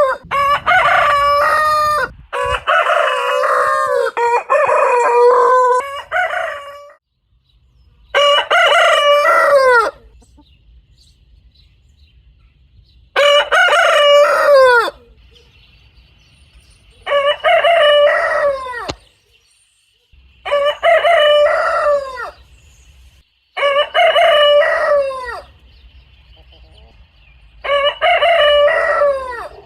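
Roosters crowing: about nine separate cock-a-doodle-doo calls, each about two seconds long and ending on a falling note, one after another with short quiet gaps between them.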